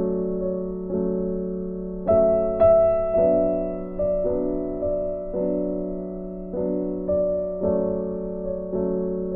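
Soft background piano music: gentle sustained chords struck about once a second, each fading before the next.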